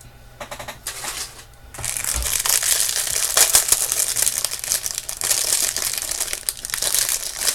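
Jewelry packaging crinkling and rustling in the hands as the next piece is unwrapped. It starts as a few short rustles, then turns into steady, loud crinkling from about two seconds in.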